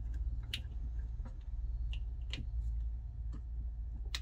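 Irregular light clicks and taps from handling a plastic wiring-harness connector and its pins, about half a dozen in a few seconds, over a low steady hum.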